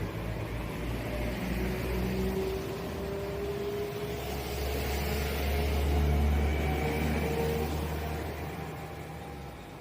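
Two coupled Class 172 Turbostar diesel multiple units pulling away and accelerating: an engine whine slowly rising in pitch over a low rumble that grows louder about six seconds in, then fades as the train draws off.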